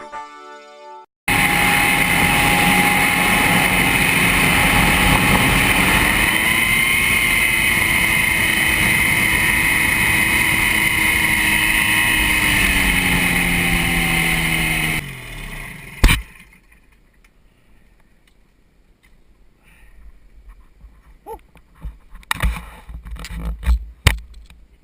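Quicksilver MX Sport ultralight's engine and propeller running steadily with wind noise. The pitch rises slightly, then falls as the engine winds down, and the engine sound drops away about fifteen seconds in. A sharp knock follows, then faint small clicks and scrapes.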